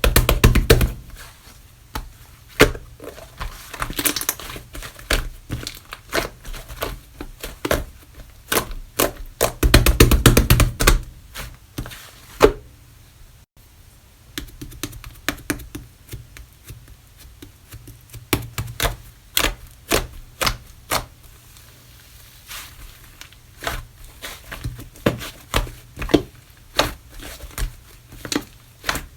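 Slime being pressed, folded and poked by hand, making a quick, irregular run of sticky clicks and small pops, with two longer stretches of dense squishing at the start and about ten seconds in.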